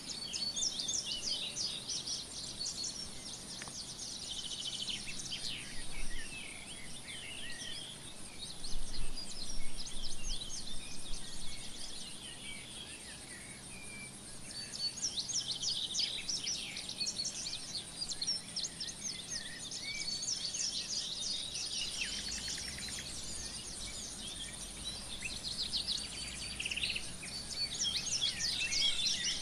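Several songbirds singing and chirping, with quick trills and calls overlapping, over faint steady outdoor background noise.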